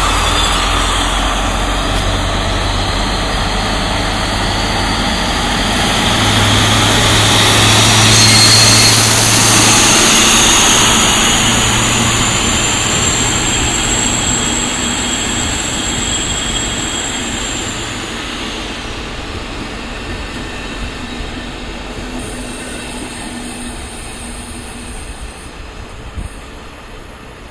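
DB class 218 diesel-hydraulic locomotive with its MTU diesel engine pulling a train out, wheels giving a long high squeal. The sound is loudest about eight to ten seconds in, then fades steadily as the train moves away.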